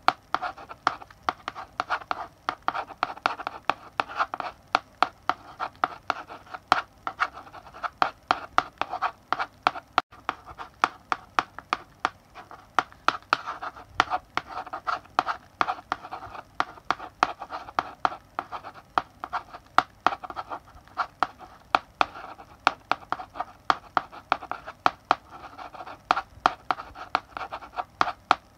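Chalk writing on a blackboard: rapid taps and short scratching strokes, many a second, as characters are written.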